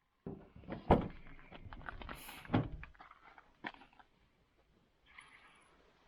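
A burst of handling knocks and clatter, with two louder thumps about a second in and again about two and a half seconds in, then a single click.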